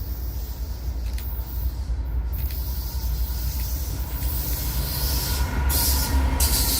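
Train rolling by with a steady low rumble. Faint, thin squealing tones from the wheels build in the second half, and a brief hiss comes near the end.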